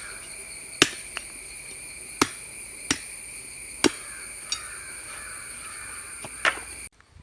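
A blade chopping thin wooden sticks to length: sharp cracking strikes at uneven intervals, about one a second, a few lighter than the rest. Cicadas drone steadily behind, and everything cuts off suddenly near the end.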